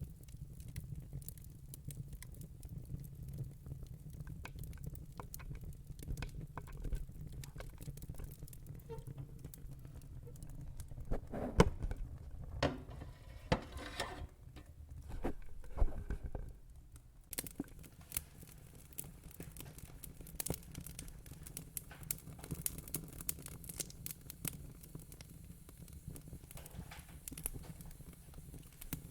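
Fire crackling: scattered small snaps and pops over a low steady rumble, with a louder run of pops around the middle.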